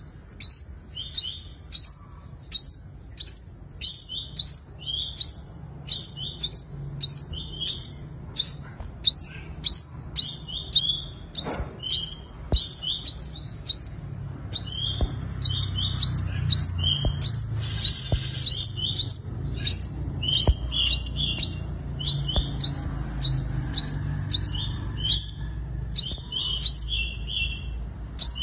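Sunbird calling, repeating a short high chirp with a quick sweep about twice a second, over a low background rumble.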